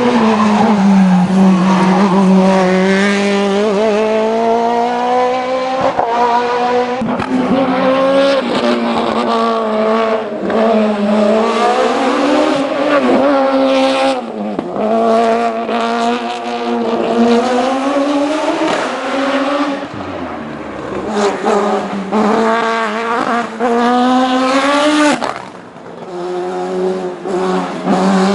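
Race car engine on a hill climb, driven hard: its pitch climbs through each gear and then drops sharply on upshifts and lifts for corners, several times over.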